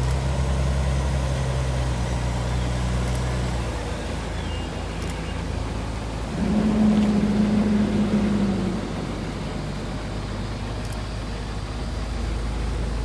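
A motor vehicle's engine running steadily with a low hum. About six seconds in, a louder steady tone sounds for about two seconds.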